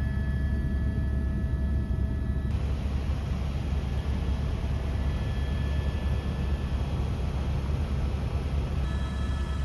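Helicopter in flight: a steady low drone of rotor and engine, with a faint high whine over it.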